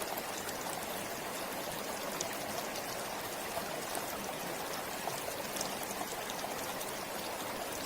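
River water flowing steadily over stones, a constant burbling rush with small splashes and trickles.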